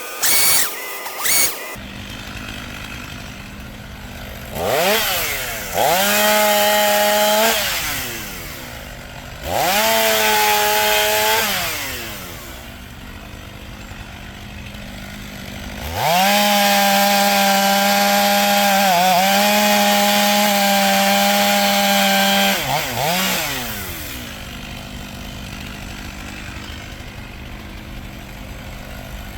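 Chainsaw revving up from idle into three full-throttle cuts through bur oak, of about three, two and six seconds, with a short blip of throttle after the last. It drops back to idle between cuts. A couple of brief loud bursts come in the first second and a half.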